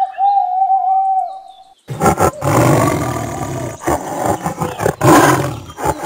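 A short, single held call at the start, then from about two seconds in a Bengal tiger roaring loudly in long, rough calls separated by brief pauses.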